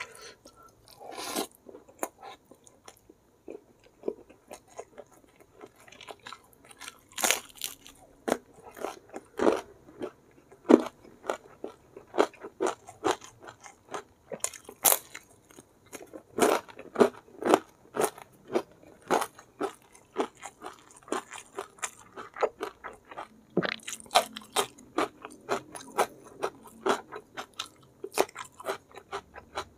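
A person chewing and crunching food close to the microphone, with many sharp, irregular crunches as fried tempeh and raw shallot are bitten.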